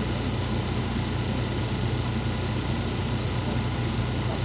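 Diesel engine of a MAZ 203.065 city bus running with a steady low hum, heard from inside the passenger cabin.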